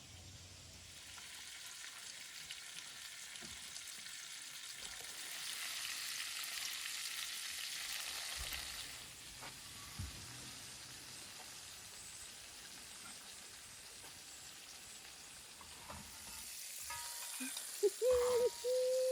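Fish fillets in a flour-and-egg batter frying in a pan, with a steady sizzle that swells for a few seconds in the middle. Near the end a short held tone, louder than the frying, sounds over it.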